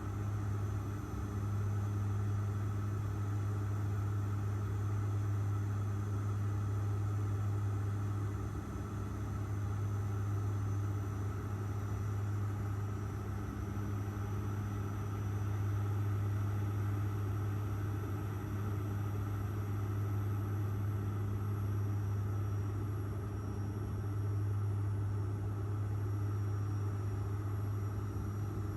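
Airliner engine and airflow noise heard inside the passenger cabin: a steady drone with a strong low hum and a few fainter steady tones above it, over an even hiss.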